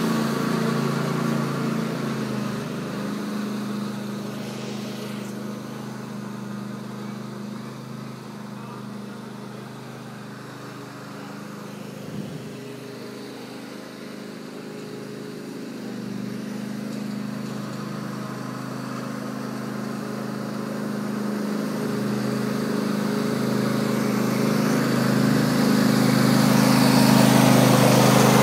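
Small ride-on tractor's engine running steadily, growing fainter as it drives away and then louder and louder as it comes back, loudest at the end.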